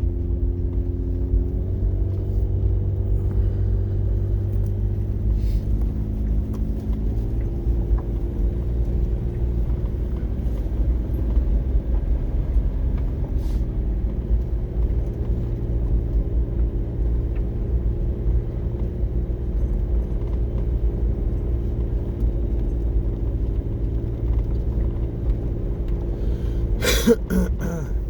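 Motor vehicle running down the road: a steady low rumble of engine and road noise, with the engine note shifting in pitch a couple of times. A short burst of sharp clicks and clatter comes near the end.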